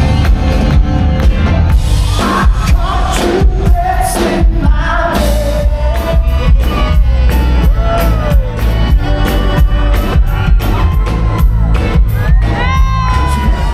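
Loud live rock band playing a soft-rock cover with a male lead vocal over heavy bass and a drum beat.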